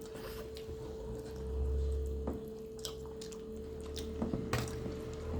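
Wet chewing and lip-smacking of people eating momos close to the microphone, scattered small clicks and squishes, over a steady faint hum.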